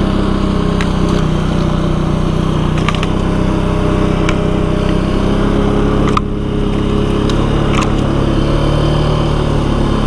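ATV engine running steadily as the quad rides along the trail, with a brief drop in level about six seconds in and a few light scattered clicks.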